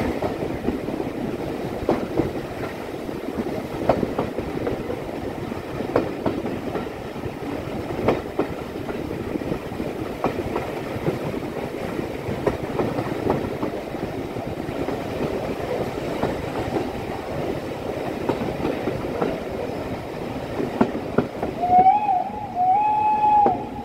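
Steam-hauled passenger carriages running on jointed track: a steady rumble with a rail-joint click about every two seconds. A brief pitched tone sounds near the end.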